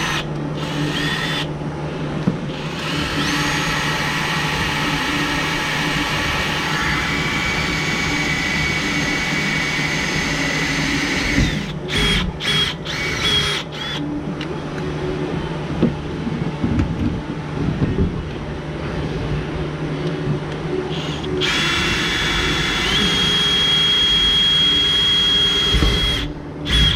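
Electric drill boring a hole, running steadily for several seconds, then a few short trigger pulls, then another steady run of about four seconds near the end.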